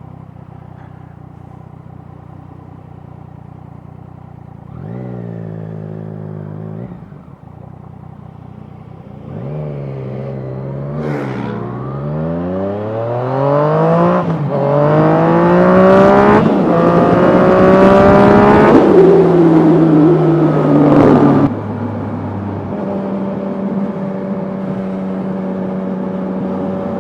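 Yamaha FZ-09's inline three-cylinder engine idling, then pulling away and accelerating hard, its pitch climbing in steps as it shifts up through the gears, with rising wind noise. It holds a steady high note at speed, then the throttle closes suddenly about 21 seconds in and it settles to a steady low running tone.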